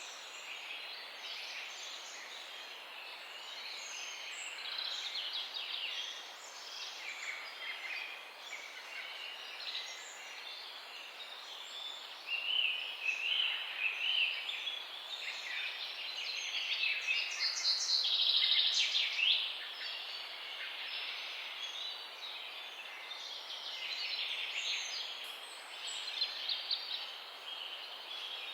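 Several songbirds chirping and trilling at once, a continuous outdoor chorus over a faint background hiss, busiest and loudest about two-thirds of the way through.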